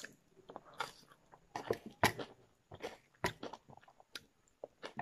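A person chewing a mouthful of food close to the microphone: irregular wet mouth smacks and clicks, a few a second, some louder than others.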